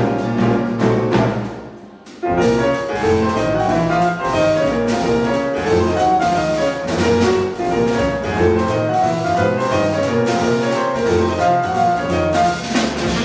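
Acoustic jazz quintet playing a bebop-style tune, with piano to the fore over double bass and drums. The band drops out briefly about two seconds in, then comes back in together.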